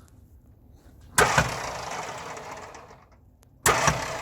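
Starter motor on the 1958 Mack B-21's Hall-Scott 1091 engine bumped twice, each bump a sudden clunk followed by a whir that fades away. The starter spins freely without engaging the flywheel, so the engine is not turned over.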